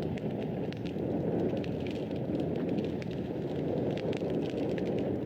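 Fire crackling in a fireplace: a steady low rush of flame with many small sharp pops and snaps scattered through it, several each second.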